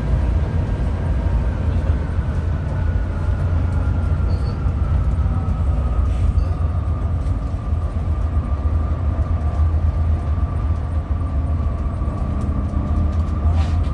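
Hino RM 280 coach on the move: a steady low rumble of engine and road noise, with a faint whine that slowly falls in pitch.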